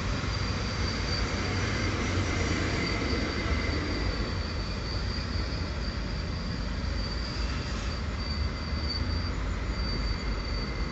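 Electric multiple-unit commuter trains running past on the track, a steady low rumble of wheels on rail with a thin high-pitched wheel squeal that comes and goes.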